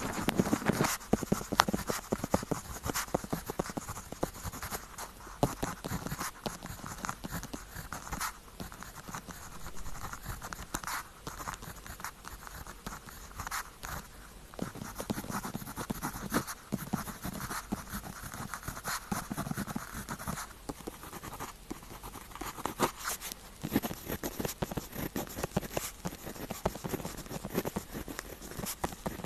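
Pen tip writing on paper, a continuous run of scratchy strokes and small ticks as letters are formed.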